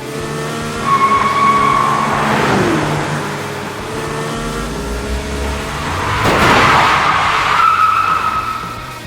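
Cartoon vehicle sound effects: tires squealing twice, about a second in and again near the end, with two rushing swells of noise between them, the second the loudest. A low rumble comes in about halfway through.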